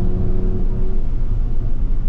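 Toyota Supra MK5's turbocharged straight-six engine running under way over a heavy low rumble; its engine tone holds steady, then fades about halfway through.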